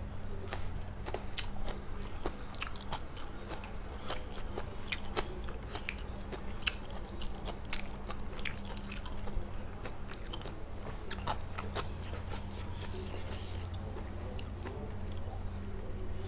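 A person chewing and biting a mouthful of shrimp laab, with frequent short crunches and mouth clicks over a steady low hum.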